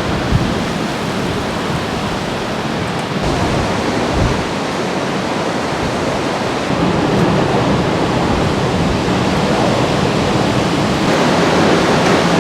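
Steady rushing roar of typhoon wind and driving rain, growing a little louder about seven seconds in.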